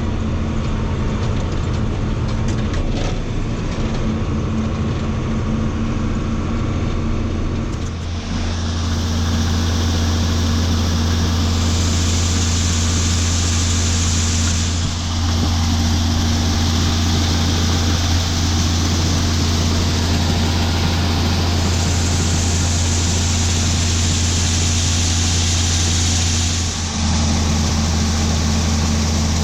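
Heavy diesel farm machinery running steadily with a low drone, its character changing abruptly about 8, 15 and 27 seconds in.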